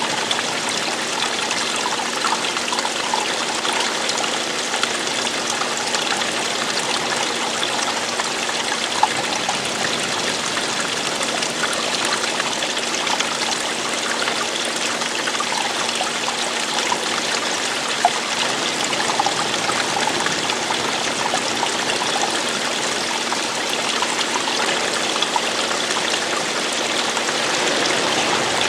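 Steady running water: a stream flowing and trickling, with small splashes here and there.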